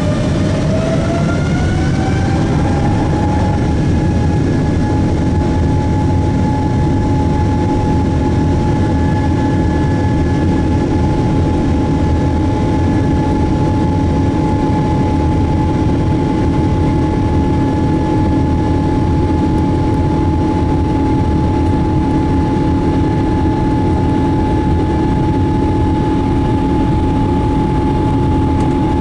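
Boeing 777-200's jet engines heard from inside the cabin: a tone rises over the first three seconds and then holds steady above a loud, constant rumble, as the engines spool up and run at high thrust.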